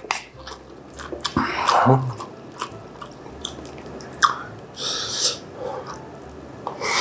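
Close-miked chewing of spicy bean sprout and fish cake japchae with glass noodles: irregular crisp crunches and wet clicks, a little louder about one to two seconds in and again near five seconds.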